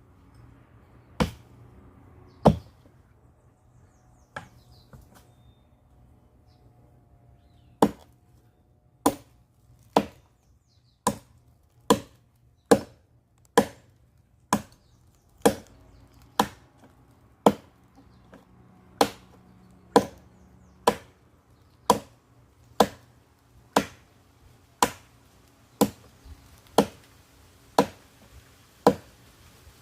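Firewood being chopped: two sharp chops, a pause of about five seconds, then a steady run of chops about one a second.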